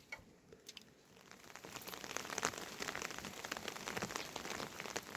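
Rain pattering on a surface: a few scattered drops at first, thickening into a dense patter after about a second and a half.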